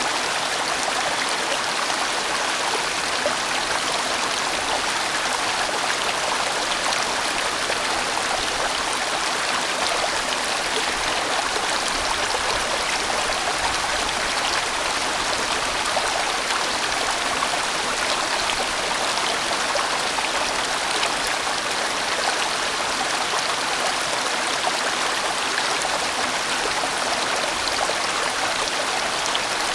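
A large mountain stream rushing over rocks in a steady, unbroken flow.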